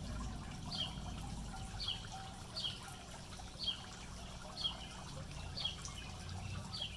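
Water trickling and splashing from a tiered cast-iron fountain into its basin. Over it a bird repeats a short falling chirp about once a second.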